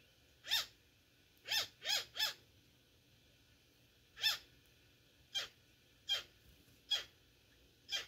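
A bird calling repeatedly: about nine short calls, each rising and then falling in pitch, three of them in quick succession near the start and the rest spaced about a second apart.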